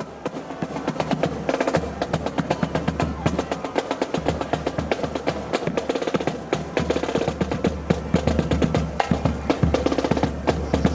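Marching band drum section playing a fast snare drum cadence, dense rapid strokes without a break.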